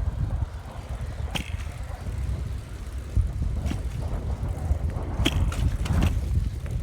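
Brompton folding bicycle being ridden, with a steady low road rumble and wind on the microphone, and a few sharp clicks scattered through it.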